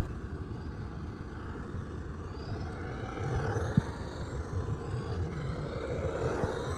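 An RC car's small electric motor whining at some distance, its pitch rising and falling as the throttle changes, over a low rumble of wheels and ground noise, with one sharp tick partway through.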